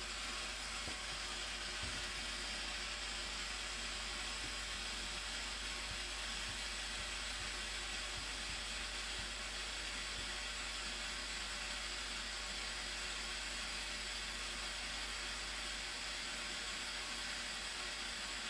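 Blue Nile Falls waterfall, water pouring in a steady, unbroken hiss that holds the same level throughout.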